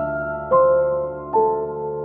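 Slow, gentle piano music, single notes struck roughly every second and left to ring over a held chord.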